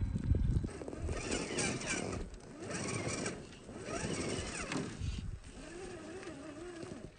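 Electric motor and gears of a 1/10-scale RC rock crawler whining, the pitch rising and falling with the throttle, heard at half speed. There are low knocks near the start.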